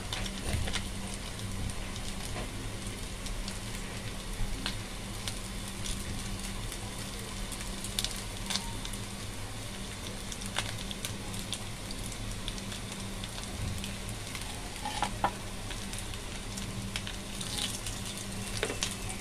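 Potato and chicken patties shallow-frying in hot oil in a pan: a steady sizzle with occasional sharp pops of spitting oil. Near the end a spatula scrapes and turns the patties in the pan.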